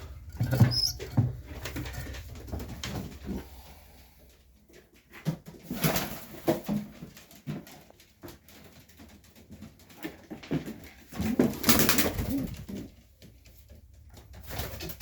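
Serbian Highflyer pigeons cooing in a small loft, with two louder rustling, noisy stretches, about halfway through and near the end.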